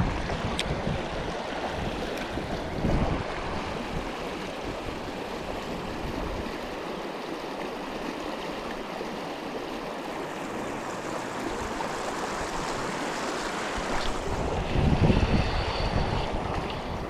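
River water running steadily, with wind buffeting the microphone at the start, briefly about three seconds in, and again about fifteen seconds in.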